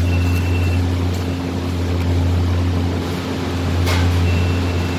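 Exhaust fans running with a steady low hum and rushing air. A few light ticks and two short thin high tones come through over it, about half a second in and near the end.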